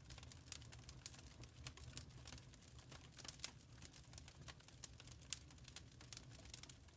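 Wood fire crackling faintly, with irregular small pops and snaps over a low, steady rumble.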